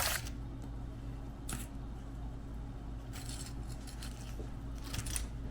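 Deep-frying sizzle cuts off suddenly just after the start. A low steady hum follows, with a few faint clicks and light clinks of handling.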